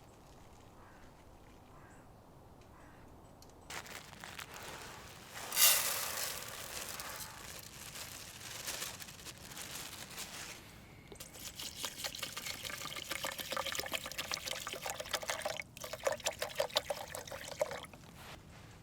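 Water being poured into a container, starting about four seconds in, with a loud splash just after. The pouring goes on in a second spell, breaks off briefly, resumes and stops near the end.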